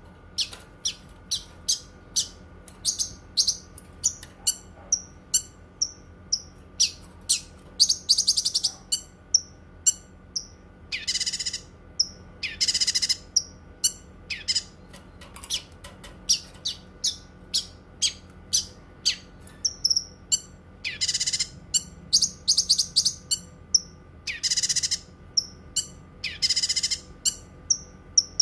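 Cucak kinoi singing: a fast, unbroken string of short, high chirps, broken several times by longer buzzy trills about a second each.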